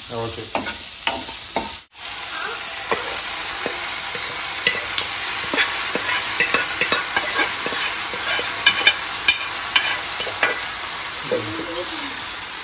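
Onions, dried red chillies and curry leaves sizzling in oil in a nonstick kadai, with a spatula scraping and clicking against the pan as they are stirred. Cooked okra is then scraped in from another pan and stirred, the frying and spatula clicks carrying on. The sound drops out for a moment about two seconds in.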